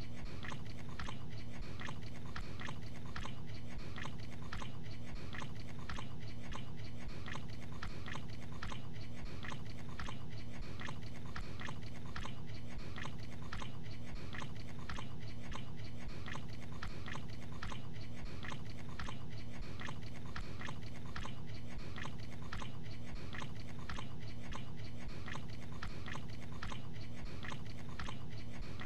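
A man chewing a mouthful of gabagool (capicola, cured pork) in a steady, even rhythm of chews that runs on unbroken, over a low steady hum.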